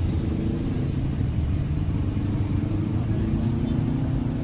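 An engine running steadily as a low hum.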